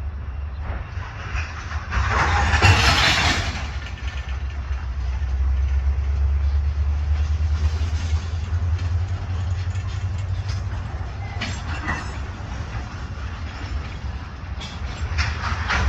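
Freight train rumbling low and steady, with a loud burst of hissing about two to three seconds in and a few sharp knocks later on.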